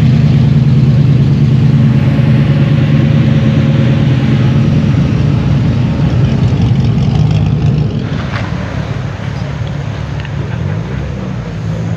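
Car engine running close by with a steady low rumble, dropping in level about eight seconds in.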